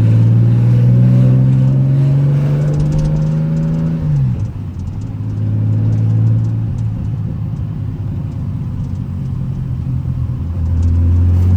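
TVR 4.5-litre Speed Six straight-six engine, uncatted, pulling hard with its pitch rising for about four seconds, then dropping sharply as the throttle lifts, with light crackling on the overrun. The engine then runs steadily and picks up again near the end.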